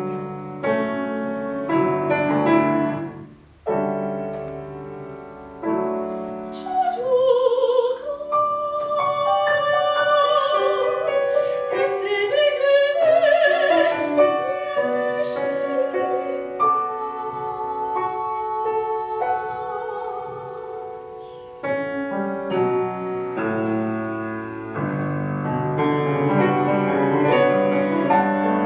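Classical art song for soprano and piano. The piano plays chords alone at first. About seven seconds in, the soprano enters and sings a sustained line with vibrato over the piano, and after about twenty seconds the piano carries on alone.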